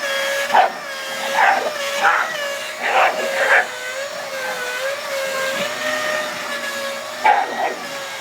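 Vacuum cleaner running with a steady whine that wavers in pitch, while a Shiba Inu barks in short bursts: five in the first four seconds and two more near the end.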